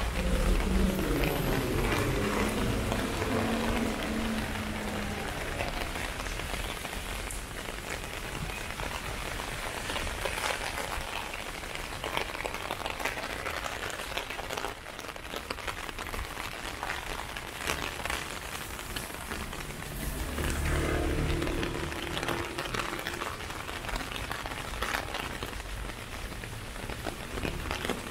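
Heavy rain pattering on an umbrella overhead, a dense steady hiss broken by many sharp individual drop hits. A low rumble swells at the start and again about twenty seconds in.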